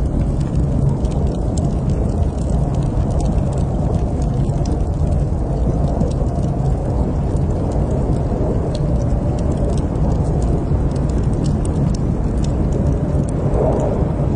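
Wood fire crackling in a fireplace: many small sharp pops and snaps over a steady low rumble of the burning fire.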